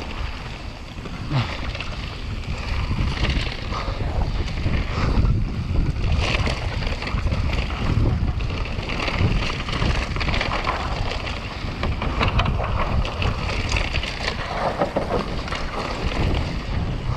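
Wind buffeting the microphone of a mountain bike speeding downhill. Under it run the steady rumble and irregular rattling of the bike over rough ground.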